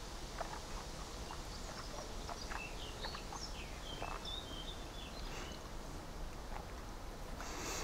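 Quiet outdoor background with a few faint, short bird chirps in the middle, some of them gliding in pitch.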